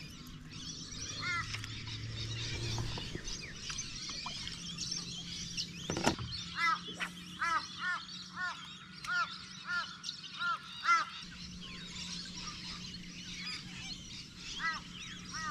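A bird giving a run of short, repeated calls, about two a second, between about six and eleven seconds in, with a single call before and after. Other birds sing steadily in the background, and there is one sharp click about six seconds in.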